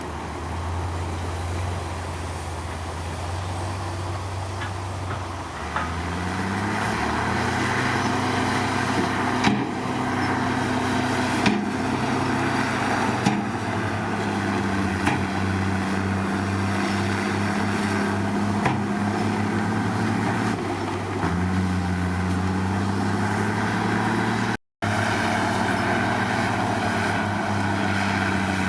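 Komatsu D53 bulldozer's diesel engine working under throttle. The engine note rises about six seconds in, then sags and picks up again a few times, with occasional sharp metallic clanks. The sound cuts out for an instant near the end.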